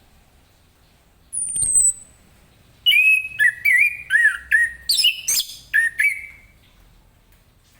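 Orange-headed thrush singing: a thin, high whistle sliding down about a second in, then a quick, varied phrase of chirps and whistled notes lasting about three seconds.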